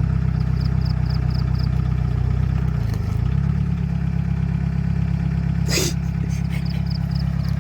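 Heavy diesel engine of an excavator running steadily, its note shifting about three seconds in, with a brief hiss near six seconds.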